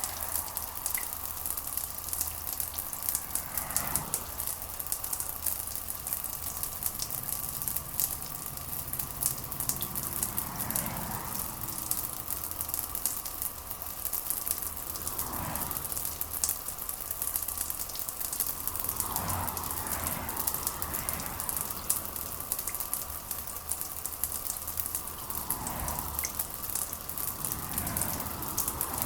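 Steady heavy rain hissing, with a low hum underneath and about six whooshing swells that rise and fall every few seconds.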